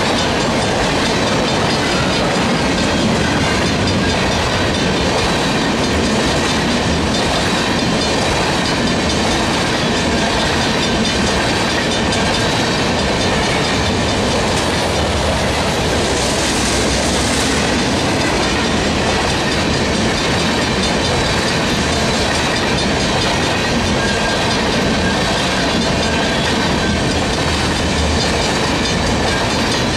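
Freight train of tank cars rolling steadily past, wheels clacking over the rail joints, with the crossing's mechanical bell ringing on under the train noise. A brief rise in high-pitched noise comes a little past halfway.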